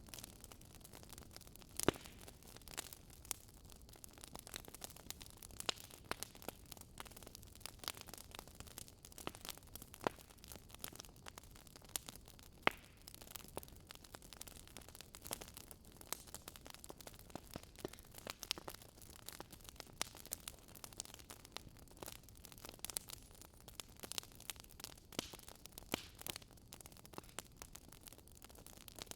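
Fireplace fire crackling: irregular snaps and pops over a soft hiss, with a couple of sharper cracks, one about two seconds in and one about halfway through.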